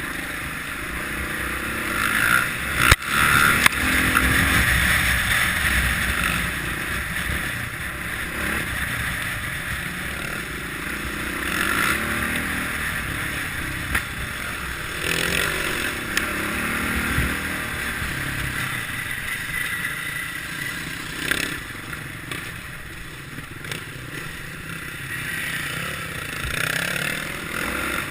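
Kawasaki KLX650R's single-cylinder four-stroke engine running as the throttle opens and closes on a trail ride, with sharp knocks and clatter from the bike over rough ground, the loudest about three seconds in.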